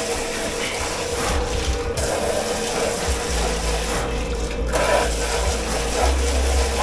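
Running water and scrubbing at a commercial pot-wash sink, dropping away briefly twice, over a steady machine hum.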